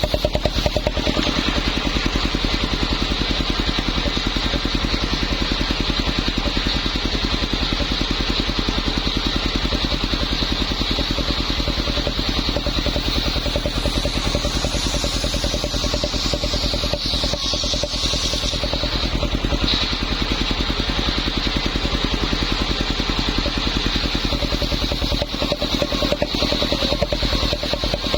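Engine-driven circular saw running steadily, with a rapid even pulse under a high whine from the blade. Around the middle a brighter, higher hiss swells for a few seconds and then fades.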